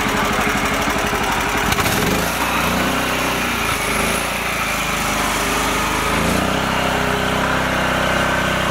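Small tractor engine running with a rapid, even firing beat; the note changes about two seconds in and again near the end.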